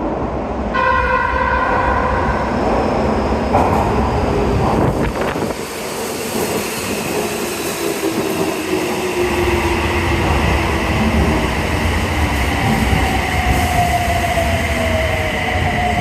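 Toei 6300 series subway train arriving in the station: its horn sounds briefly about a second in, then the train runs in with rumbling wheel noise and a whine that slowly falls in pitch as it brakes.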